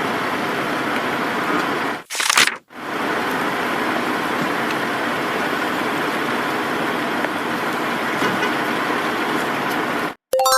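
Steady traffic and street noise. About two seconds in it is broken by a short hissing burst and a brief drop. Near the end the noise cuts off and a bell-like ding begins.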